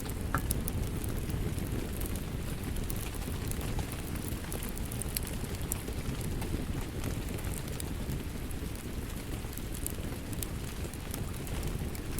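A steady hiss of rain with a low rumble, mixed with the scattered sharp pops and crackles of a wood fire.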